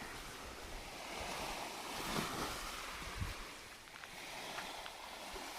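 Wind rushing outdoors, swelling and easing in slow gusts, with some wind buffeting on the microphone.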